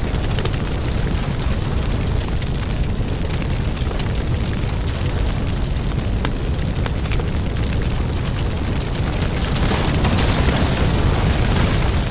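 Wood fire in a fireplace burning with a steady low rumble and many sharp crackles and pops; the hiss of the flames swells near the end.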